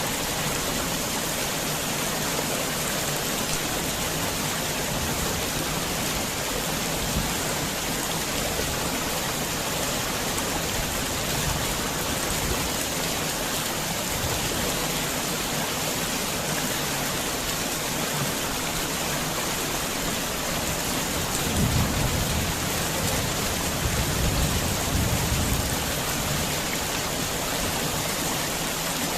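Heavy rain falling steadily as a dense hiss, with a low rumble of thunder rolling in about two-thirds of the way through for several seconds.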